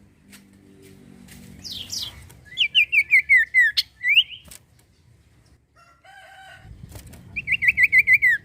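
Iora (cipoh, the 'sirtu' type) singing: a couple of upward-sweeping whistles, then a fast, roughly one-second run of descending whistled notes, and another such run near the end. A short, lower call comes in between, about six seconds in.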